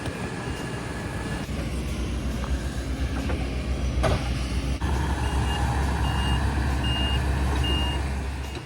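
Heavy diesel machine running, with a low engine rumble that gets louder about halfway through, and its reversing alarm beeping at a steady pace, about one beep a second, in the second half.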